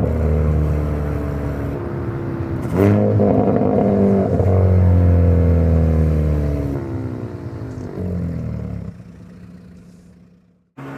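Hyundai Elantra N's turbocharged four-cylinder engine and exhaust under acceleration, with a sudden crack about three seconds in. The revs then fall steadily as the car slows, and the sound fades away and cuts off just before the end.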